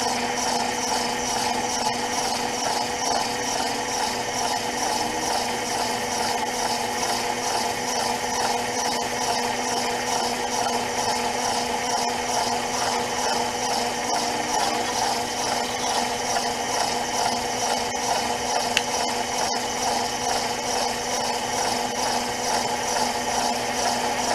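Electric concrete mixer running steadily, its drum churning a batch of concrete for footings, with a motor hum and a light swishing rattle that repeats about two or three times a second.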